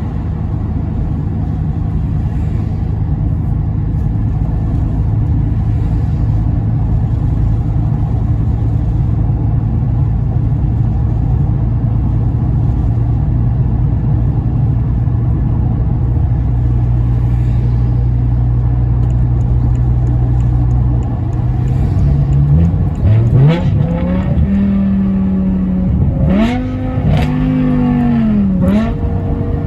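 BMW M6 E64's 5.0-litre V10 engine running steadily at low revs, then, about two-thirds of the way through, revved up and dropped back several times in quick succession.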